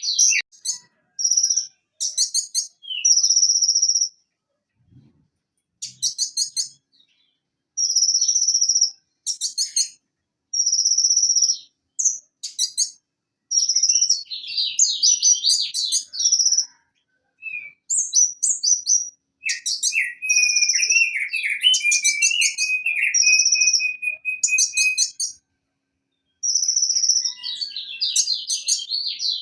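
Purple-throated sunbird (konin) singing: short, high-pitched phrases and rapid trills repeated with brief pauses. About two-thirds of the way through comes a lower, longer trill.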